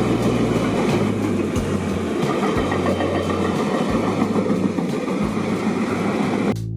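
Train passing through a station: a steady loud rumble of wheels on rail with scattered clacks from the rail joints. It cuts off abruptly near the end.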